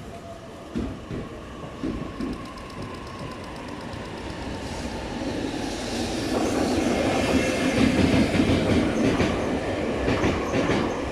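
JNR EF65 electric locomotive hauling a rake of new Toei 6500 series subway cars through the station, growing louder as it approaches and passing about six seconds in. It is followed by the rumble of the towed cars and their wheels clattering over the rail joints.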